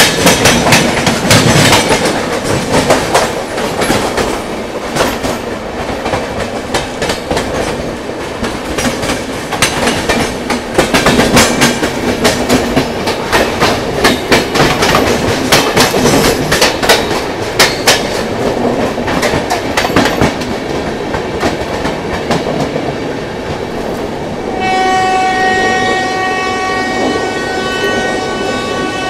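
Two passenger trains running side by side at speed, their wheels clattering over the rail joints in quick clusters of clicks over a steady rush. About 25 seconds in, a train horn starts and holds one long steady blast.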